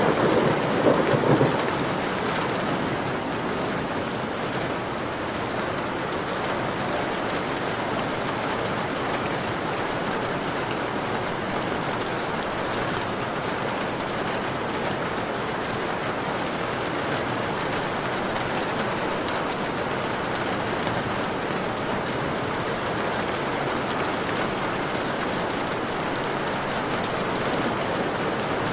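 Steady heavy rain pattering on a window, with a roll of thunder dying away in the first second or two.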